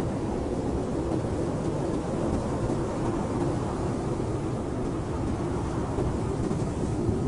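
Blizzard wind blowing steadily, a deep, even rushing noise that is heaviest in the low range with a thinner hiss above it.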